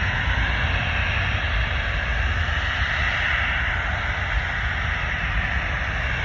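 Jet airliner's engines roaring in a steady wash of noise during or just after takeoff, swelling slightly in the middle, over a low rumble from wind on the microphone.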